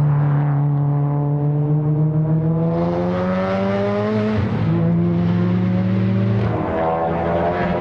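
Time attack race car engine under hard acceleration, its pitch climbing steadily, then dropping sharply at a gear change about four and a half seconds in, and changing pitch again near the end.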